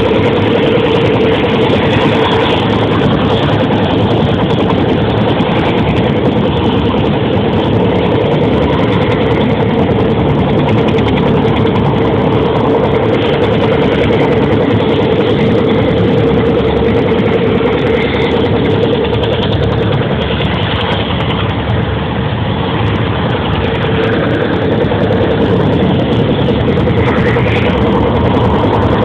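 Helicopter running: loud, steady engine and rotor noise with a constant mid-pitched hum.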